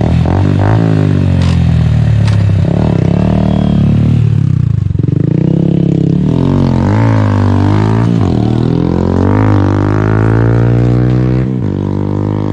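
Motorcycle engine breathing through an Akrapovic aftermarket exhaust, blipped up and down several times, its loud, deep exhaust note rising and falling in pitch.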